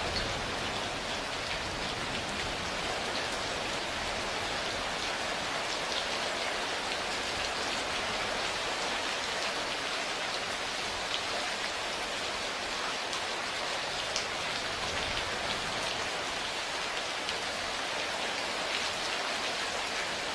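Steady rain falling, an even hiss with a few sharper drops standing out now and then.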